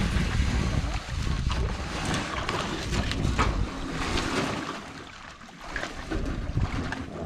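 Wind rumbling on the microphone over water noise around a small drifting river boat; the rumble eases about five seconds in.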